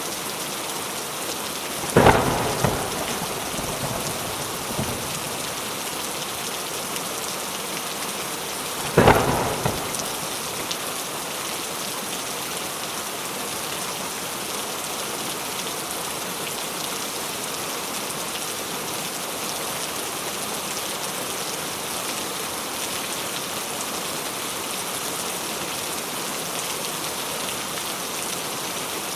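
Steady rain with two sharp thunderclaps, one about two seconds in and another about nine seconds in, each trailing off over a second.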